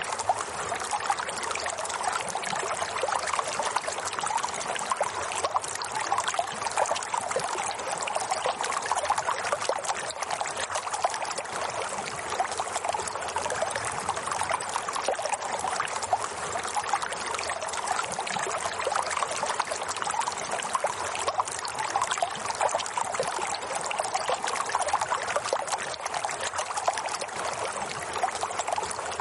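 Running water, a steady trickling and splashing flow like a stream, with no change in level.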